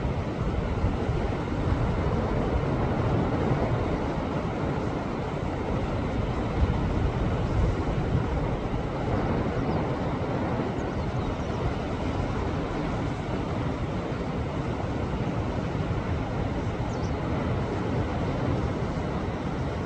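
Sea waves surging against a rocky shore: a continuous deep rush of surf that swells and eases slightly, with no single break standing out.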